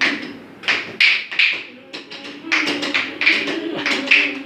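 Hand percussion accompanying folk singing: sharp strikes in an uneven rhythm, about two a second, over a low held tone.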